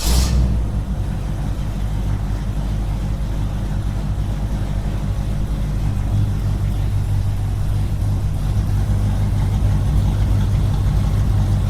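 A small motor running steadily with a low, even hum.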